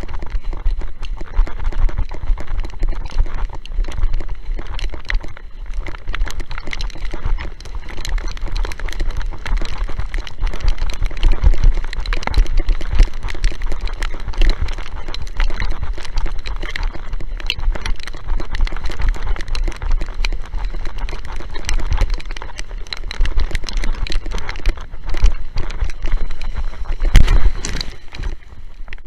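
Strong wind buffeting the microphone while a windsurf board planes over choppy water, with rapid irregular knocks and splashes of the hull slapping the chop. The hardest slap comes near the end.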